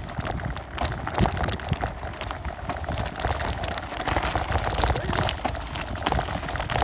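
Bicycle being ridden, heard through a phone taped to its handlebars: a continuous, irregular rattling and clattering over a low rumble.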